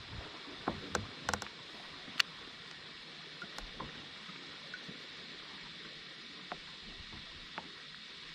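Kayak on the water: a steady hiss of water with a few sharp knocks and clicks of gear against the hull, bunched in the first two seconds, the loudest a little after two seconds, then only a few faint ticks.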